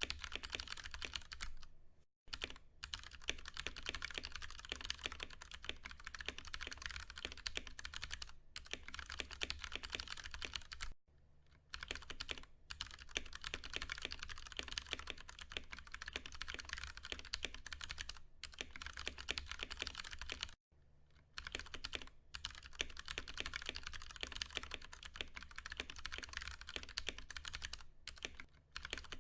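Continuous typing on a Ducky One 2 Mini mechanical keyboard with tactile Cherry MX Brown switches: a dense patter of keystrokes, with brief pauses about two, eleven and twenty-one seconds in.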